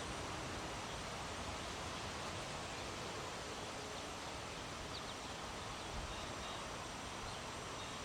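Steady breeze noise with rustling leaves, and a few faint, short, high chirps from about halfway through.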